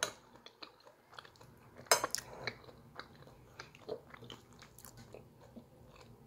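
A person chewing a mouthful of soft beef stew close to the microphone, with small wet mouth clicks and a metal spoon tapping and scraping a plate. The sounds are quiet and scattered, loudest about two seconds in.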